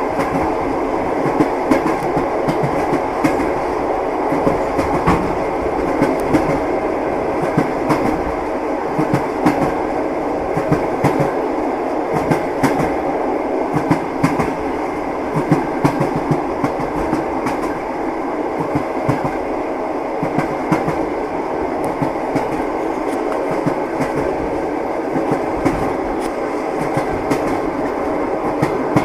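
Train wheels clattering over the rail joints: a steady rolling rumble with frequent sharp clicks and knocks.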